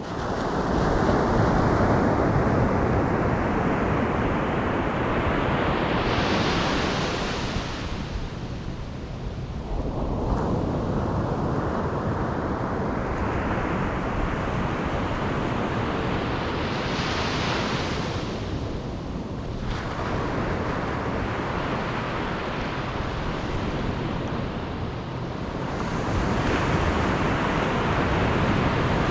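Ocean surf: waves breaking and washing up the beach, the rush swelling and fading with a new wave every eight to ten seconds.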